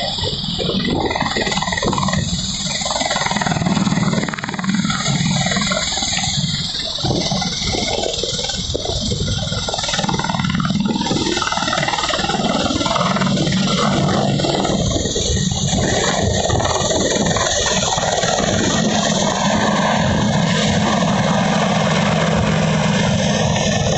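Helicopter turbine engines and rotor running steadily: a high whine over a low drone.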